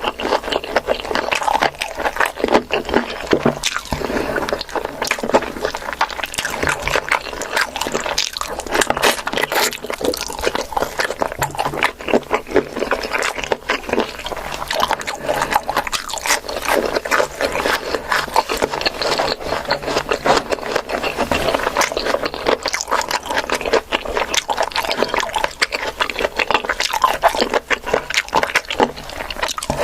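Eating sounds: chewing with mouth clicks and smacks in a dense, irregular run.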